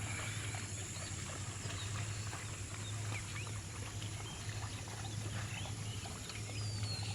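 Scattered short chirps and calls of outdoor wildlife, with one falling call near the end, over a steady low hum.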